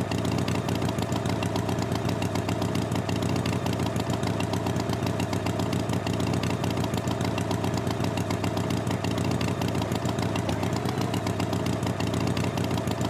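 Tractor engine idling steadily with a fast, even chug.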